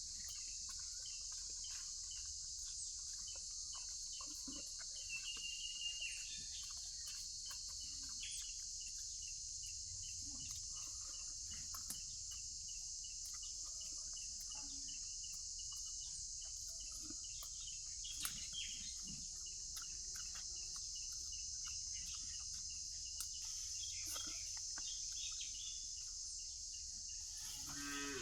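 Steady high-pitched drone of crickets or other insects, with a few bird chirps and scattered small clicks over it.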